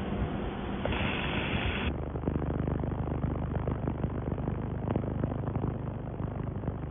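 Handheld laser welding machine running with wire feed: a steady machine hum, with a brief brighter hiss about a second in, then dense fine crackling over the hum from about two seconds in.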